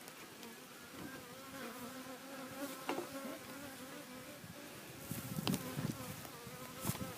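Honeybees buzzing around an open beehive, a steady, slightly wavering hum of many wings, with a few knocks partway through.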